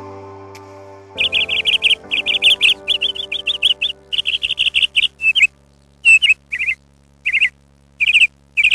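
Bird chirping in rapid clustered bursts of short high notes, beginning about a second in and growing sparser in the second half, over sustained steady music tones.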